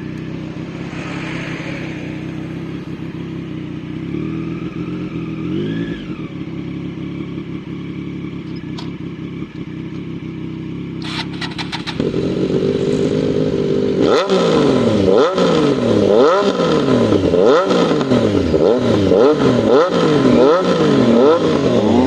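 Triumph Street Triple 765 RS inline-three engine through an Austin Racing de-cat slip-on exhaust. It idles steadily with one short blip, then from about halfway it is revved again and again in quick throttle blips, about one a second, which are the loudest part.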